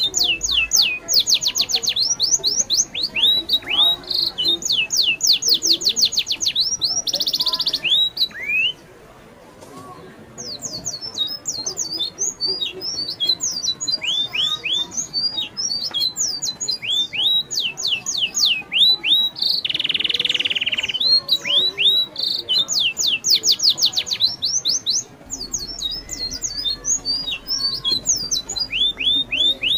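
Birds chirping in fast runs of short, high notes that slide downward, with a brief lull about nine seconds in and a harsh, buzzy call about twenty seconds in.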